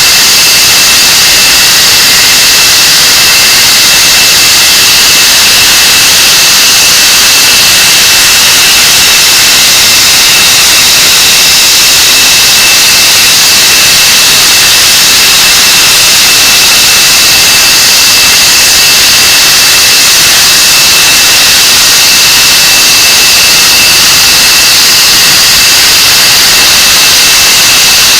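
English Electric Lightning's Rolls-Royce Avon turbojet engines running steadily on a ground run-up, a very loud rushing roar with a thin high whine held at one pitch.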